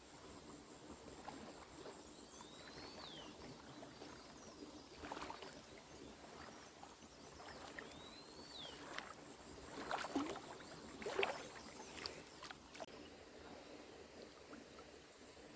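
Water sloshing and splashing a few times in a hot-spring pool, loudest about ten and eleven seconds in. Twice, a bird gives a short whistled call that rises and then falls.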